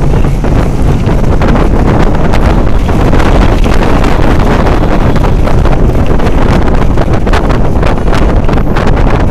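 Wind buffeting the microphone: a loud, steady rumbling noise with no break.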